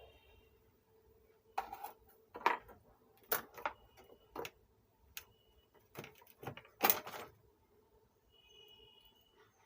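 A run of irregular sharp clicks and clinks of small hard objects being handled, with the two loudest at about two and a half and seven seconds in, over a faint steady hum.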